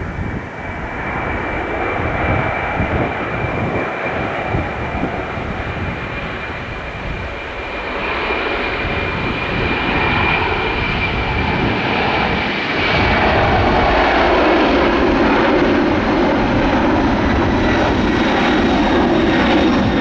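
Boeing 747's four turbofan engines at departure power, a loud roar with a steady high whine that sags slightly in pitch; it grows louder about thirteen seconds in and stays loud.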